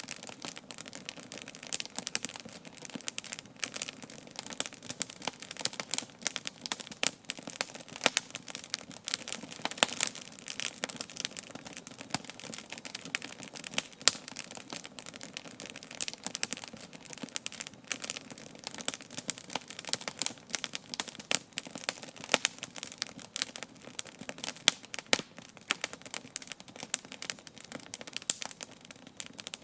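Wood campfire crackling: a dense, irregular run of small pops and snaps, with a few louder snaps among them.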